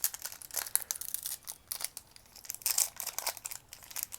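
Foil booster-pack wrapper crinkling and tearing as it is handled and opened, a dense run of sharp crackles.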